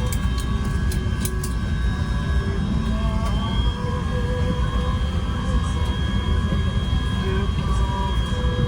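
A steady low rumble, typical of an airliner cabin's air conditioning on the ground, with music and a murmur of voices over it.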